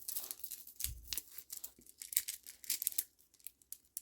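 Close handling noise of a kandi bead bracelet and crafting materials: a run of light rustling and crisp ticks, with a soft bump about a second in.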